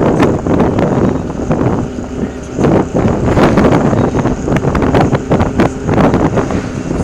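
Kawasaki ZXR400's inline-four engine running loud and uneven through a homemade straight-pipe exhaust, with wind on the microphone.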